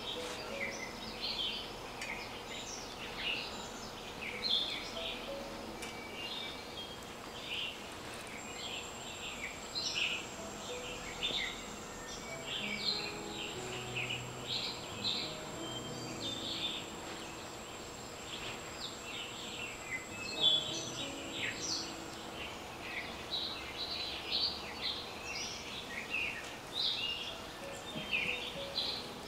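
Many small birds chirping, short calls repeating one after another throughout, with a thin steady high whine through the middle and a single sharp tap about twenty seconds in.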